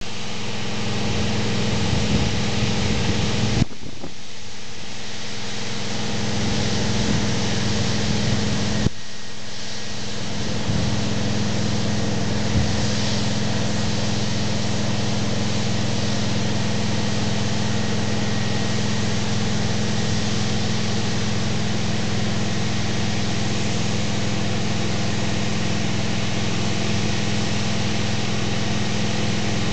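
1966 Ford Super Duty fire truck's V8 engine running steadily, driving its fire pump at 225 psi, under a steady rushing hiss of water from the monitor gun. The low engine sound briefly thins out twice in the first ten seconds.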